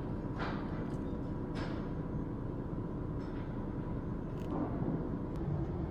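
A steady low rumbling noise with a faint hum, and a few soft brief sounds over it.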